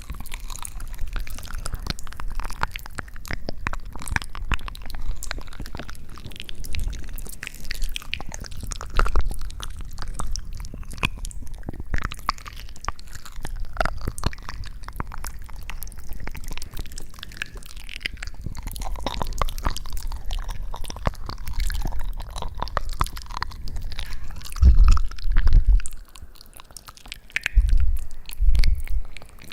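Close-miked ASMR crunching: dense, fine crackles and crunches. A few heavier low thuds come in near the end.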